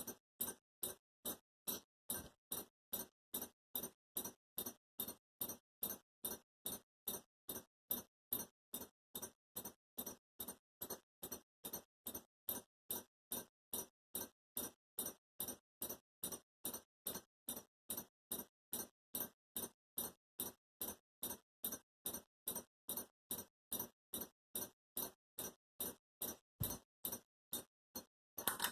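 Ceiling fan running with a steady, even ticking, about three clicks a second.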